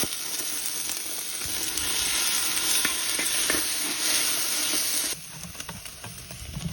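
Food sizzling in a hot frying pan as it is stirred, with a few faint scrapes of the spatula; the sizzle cuts off suddenly about five seconds in.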